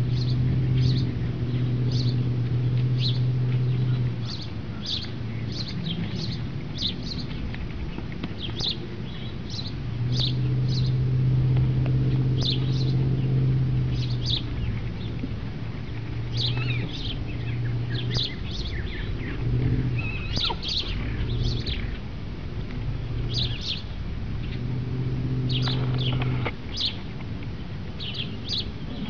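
Small birds chirping over and over, short high calls scattered throughout, over a low steady rumble that swells for several seconds at a time and then drops back.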